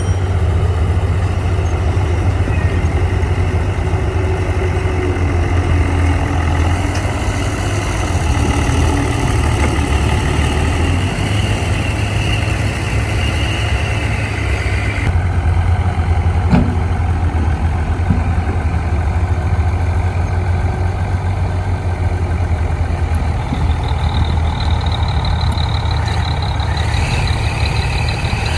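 Bulldozer's heavy diesel engine running steadily with a deep, even drone, a thin higher whine over it that drops away about halfway through.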